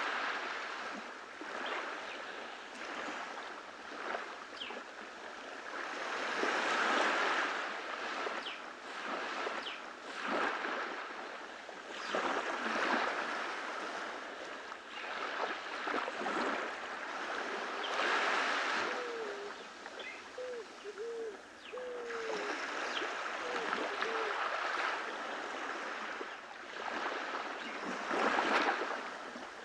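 Gentle surf of small waves breaking and washing up on a tropical beach, swelling and easing about every five to six seconds. A few faint short chirps come about two-thirds of the way through.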